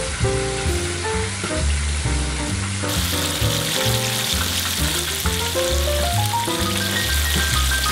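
Battered chicken pieces deep-frying in hot oil, a steady crackling sizzle that grows brighter and louder about three seconds in. Background music with a melody and bass runs under it.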